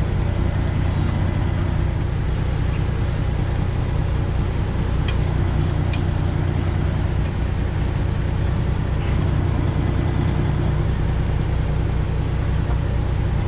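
Detroit Diesel 12.7-litre engine of a Freightliner Classic XL semi truck running steadily at low speed while reversing, heard from inside the cab as an even low drone.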